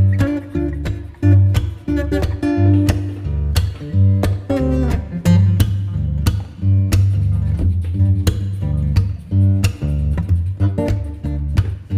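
Background music played on guitar: plucked and strummed acoustic guitar notes over a steady bass line.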